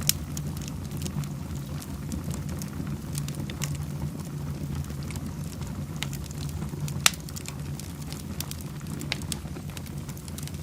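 Wood fire in a fireplace crackling, with scattered sharp pops over a steady low rumble; the two loudest pops come right at the start and about two-thirds of the way through.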